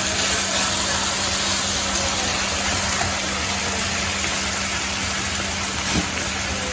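Chicken pieces sizzling in olive oil in a pan: a steady, even hiss, with a steady low hum underneath. There is a light knock about six seconds in.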